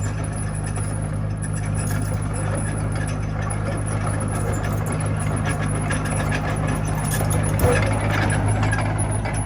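Diesel engine of a Komatsu mini bulldozer running steadily, with a rattle of machinery over it and one sharp knock about three-quarters of the way through.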